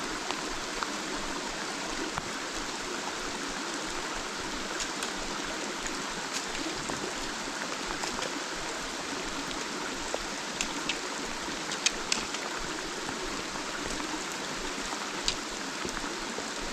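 A creek rushing steadily, a constant wash of running water, with a few sharp ticks scattered through it.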